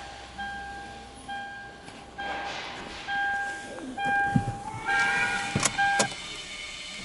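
Toyota Hilux Surf's in-cabin warning chime beeping steadily, about one beep a second, with two sharp clicks near the end.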